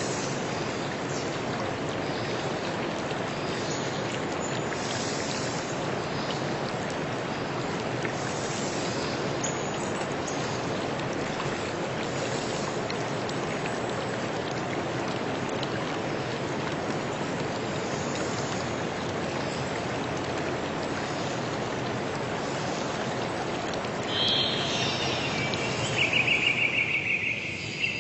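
Flowing stream water, a steady rushing hiss. About 24 seconds in, the water fades and a high, rapidly pulsing call takes over.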